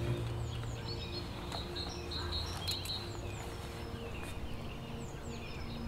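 Songbirds chirping in woodland, with repeated short high chirps and brief falling calls, over a steady background hiss.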